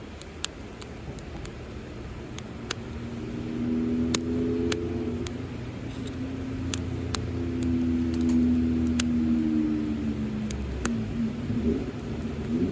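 Wood fire crackling, with irregular sharp pops. A low engine-like hum swells in about three seconds in and fades out near the end.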